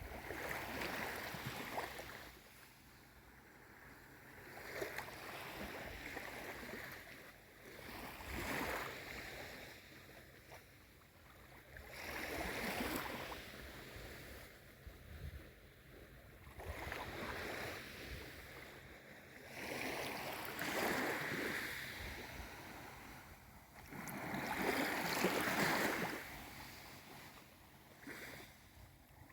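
Small waves on a calm sea lapping and washing in gentle swells that rise and fall every three to four seconds.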